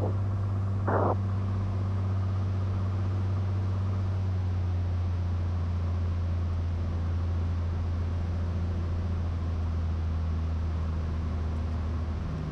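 Cessna 182's piston engine and propeller droning steadily at climb power after takeoff, heard through the aircraft intercom.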